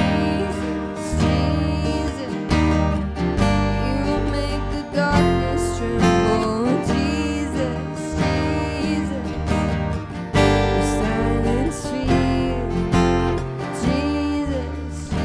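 Worship band playing an instrumental passage between sung lines: strummed acoustic guitar over a full band with a strong bass.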